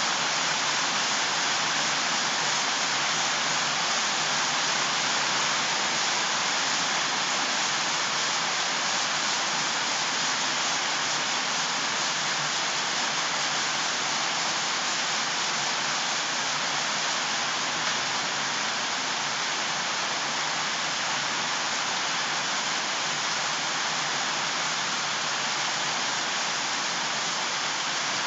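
Water rushing: a steady, even hiss with no separate drops or splashes standing out.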